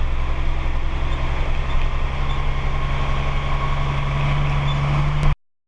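Truck engine running steadily with a low hum, slightly stronger about four seconds in; the sound cuts off suddenly near the end.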